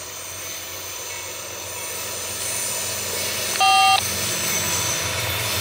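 CSX freight train's lead GE ES40DC diesel locomotive approaching, its engine and rail noise slowly growing louder. A little over three and a half seconds in, a short, loud electronic beep from a scanner radio sounds over it for under half a second.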